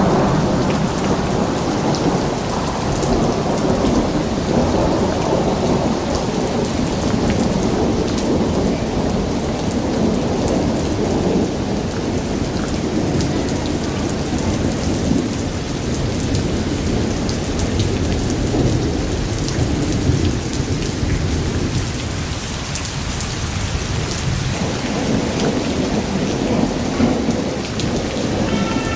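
Heavy rain falling steadily, a continuous deep rushing sound with scattered sharp drop ticks.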